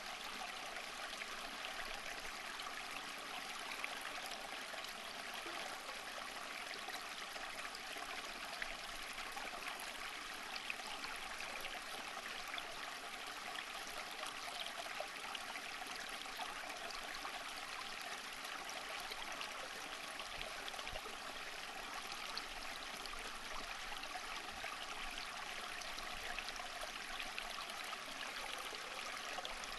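Water running steadily over stones in a stream, an even rush with many small splashes and trickles.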